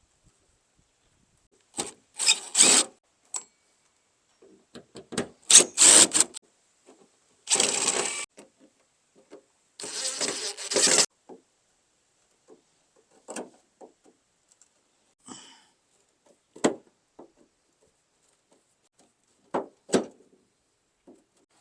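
Metal tailgate parts being handled and worked on: a string of separate clanks and scrapes, each a second or less, louder in the first half.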